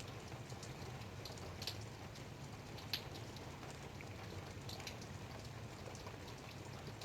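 Light rain falling, a steady patter with scattered individual drops ticking, one sharper drop about three seconds in, over a low steady rumble.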